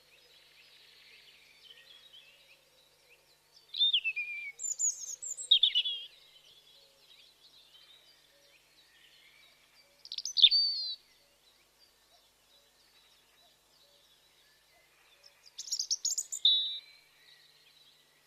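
Wild birds singing: one bird gives three loud phrases of quick, sharply falling whistled notes, a few seconds apart. Fainter chirps from other birds fill the gaps.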